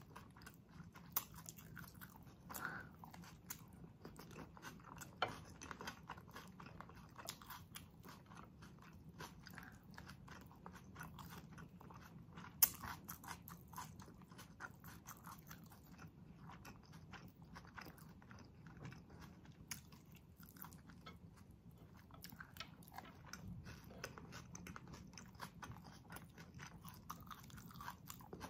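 Close-miked chewing and mouth sounds of a person eating sisig and rice by hand: many small wet clicks, with a few sharper crunches, the loudest about halfway through.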